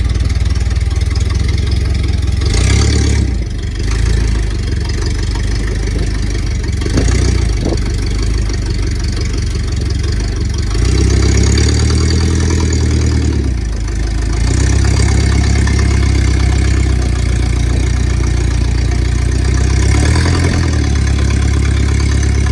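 An engine idling steadily, its note shifting a few times.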